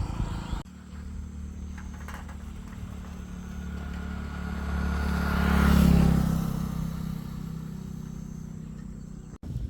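A motor vehicle passing by: a steady low engine hum grows louder to a peak about six seconds in, then fades away.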